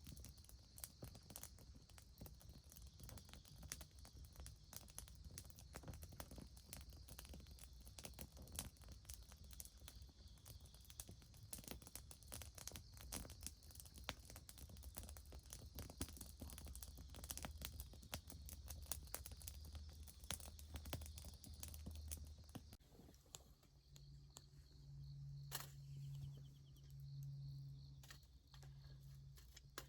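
Campfire crackling faintly, a dense run of small snaps and pops that thins out about two-thirds of the way through.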